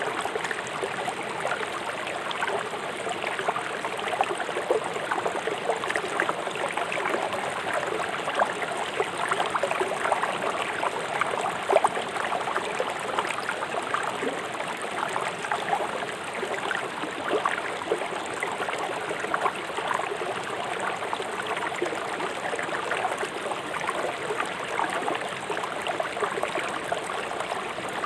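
River water rushing swiftly over and around stones: a steady dense babble with many small splashes and gurgles.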